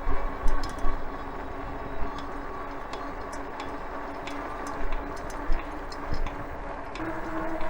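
A new bicycle pedal clicking with the pedal strokes, a sign of a faulty pedal bearing, over steady tyre and wind noise from a fat-tire electric bike. Near the end the e-bike's motor whine comes in.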